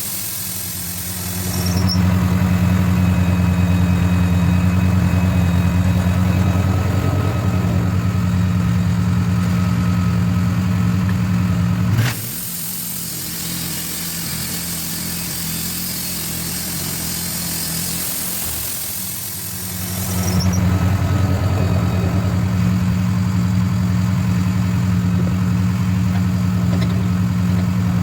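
Portable sawmill's gas engine running at high speed with a steady hiss of cutting; about twelve seconds in it drops abruptly to a lower idle, and about eight seconds later it speeds back up to the loud cutting level.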